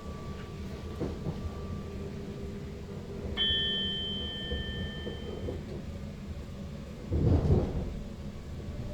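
Running rumble inside the cab of an SLT electric train. A single bell-like ding sounds about three and a half seconds in and rings away over a couple of seconds, and a louder rumbling rush comes near the end.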